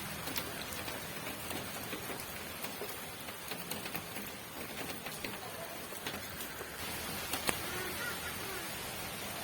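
Steady rain falling, an even hiss with individual drops ticking sharply on a surface; one drop or tap stands out louder about seven and a half seconds in.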